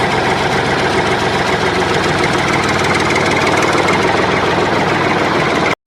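A small motor running steadily at a fast, even pulse. It cuts off abruptly near the end.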